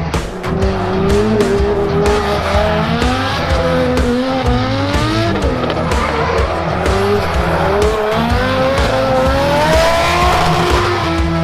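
Toyota 1UZ V8 engine in a BMW E46 drift car revving up and down repeatedly through a drift, with tyres squealing.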